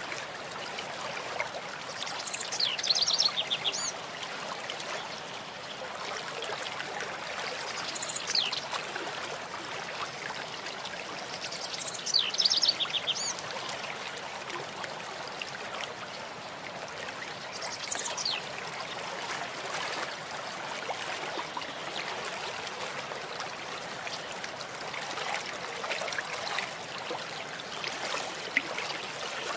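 Steady rush of a flowing stream, with a songbird calling four times: each phrase a falling high whistle, some followed by a quick run of notes.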